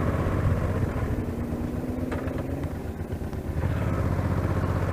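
Motorcycle engine running as the bike rides off, heard muffled through a mic fitted inside the rider's helmet. The engine sound dips about three seconds in and then picks up again.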